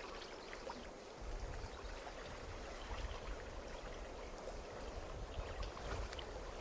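Water lapping gently, with many small scattered ticks and a low rumble that starts about a second in.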